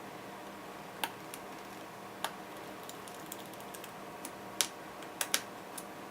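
A handful of sharp, irregularly spaced clicks and taps from small parts of a MacBook Pro being handled during repair, two of them in quick succession about five seconds in, over a faint steady hum.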